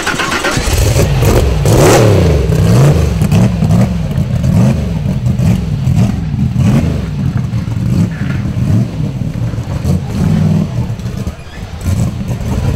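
Rock bouncer's high-horsepower engine revving hard from about a second in, the throttle pumped so that the revs swing up and down every half second or so.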